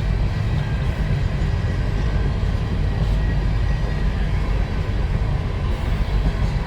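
Freight train of empty hopper cars rolling past, a steady low rumble of wheels on rail.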